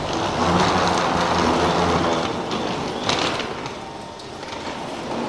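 Tohoku Shinkansen train running: a loud rushing noise with a low hum that dies down about four seconds in, with a sharp knock about three seconds in.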